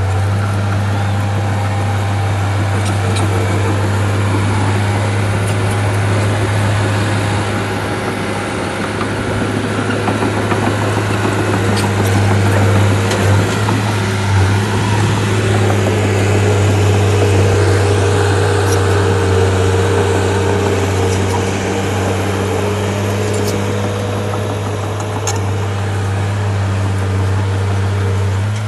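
Heavy diesel engine of a bulldozer running steadily with a deep, even hum, a little louder in the middle.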